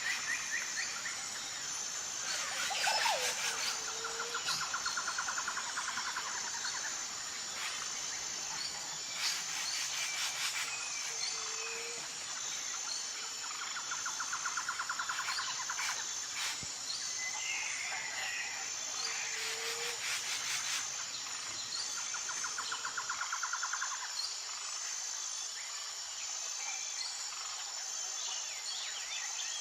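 Tropical forest ambience: an insect chirps steadily in a high, evenly pulsing tone while birds call, one of them giving a rapid trill three times, with scattered chirps and rattles.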